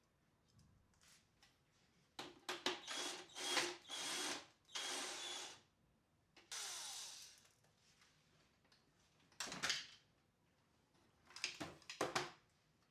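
A small power tool run in several short bursts, some with a falling pitch as they stop.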